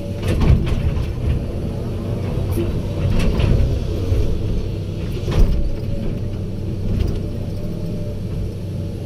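Heavy diesel earthmoving machinery running steadily, with a steady whine over the engine and several metallic knocks and clanks. The loudest knock comes about five and a half seconds in.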